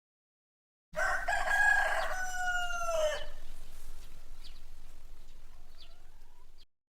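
A rooster crowing once, a long pitched call that drops in pitch at the end, starting about a second in. Faint short chirps from small birds follow before the sound cuts off abruptly near the end.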